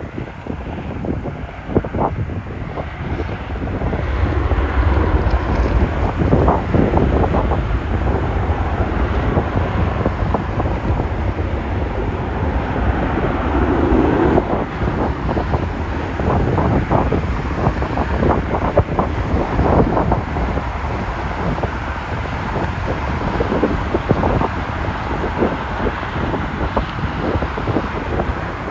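Strong wind buffeting the microphone in gusts over a steady low rumble.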